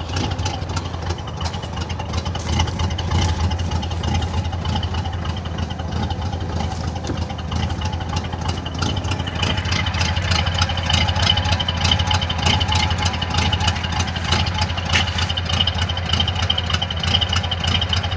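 Chevrolet Monte Carlo engine idling steadily, with a thin high whine from the power steering pump, whose bearings the owner blames on an earlier steering gearbox leak. The whine grows a little louder about halfway through.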